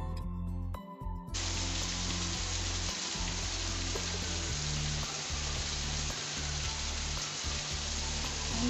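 Chicken pieces and browned onions sizzling in a nonstick frying pan: a steady frying hiss that starts abruptly about a second in. Background music plays before it.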